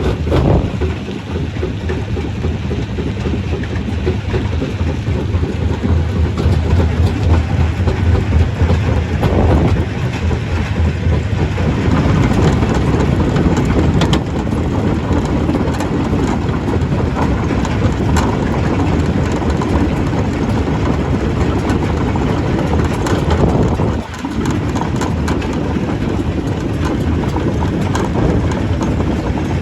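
Stone crusher running under load: a steady low machine sound under rapid, irregular knocks and rattles of rock being broken. It drops off for a moment about three-quarters of the way through, then carries on.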